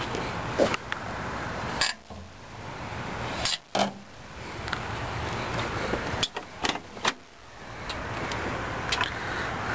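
Scattered clicks and knocks from the interior fittings of a Chevrolet Suburban being handled, with a quick cluster of them about six to seven seconds in. A steady low background noise runs underneath.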